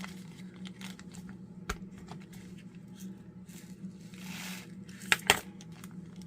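Small plastic clicks and rustling from handling bags and containers of diamond painting drills, with a brief rattle of drills about four seconds in and two sharp clicks just after five seconds. A steady low hum runs underneath.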